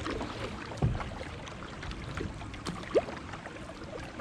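Water sloshing around a sit-on-top kayak moving down a river, with a low thump about a second in and a short rising squeak about three seconds in.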